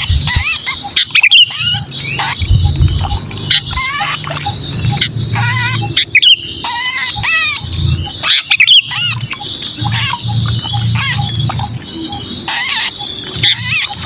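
Sooty-headed bulbul giving rapid, harsh distress calls, the cries of a trapped bird, used as a lure call to draw other bulbuls in. A low rumble runs underneath.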